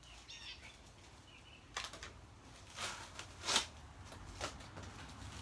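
A few scattered rustles and knocks of parts being handled, about one a second, the loudest about three and a half seconds in. Faint bird chirps come in the first second or so.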